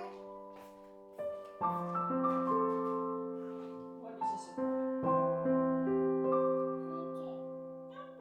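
Slow, gentle piano music: single notes and soft chords struck about once a second and left to ring and fade.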